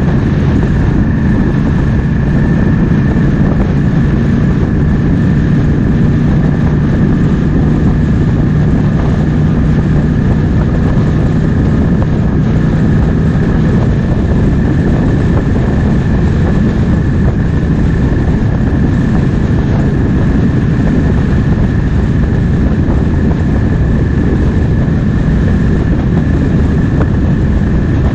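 Triumph Speed Twin 1200's parallel-twin engine running at a steady pace on the move, with wind rushing over the microphone.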